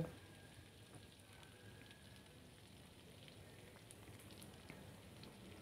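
Faint, steady sizzle of sliced shallots, garlic and chilies frying in oil in a wok, with a few tiny crackles.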